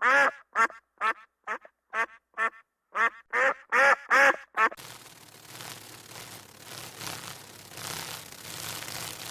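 An animal calling in a quick run of about a dozen short, pitched calls, which stop abruptly a little under halfway through, giving way to faint steady background noise.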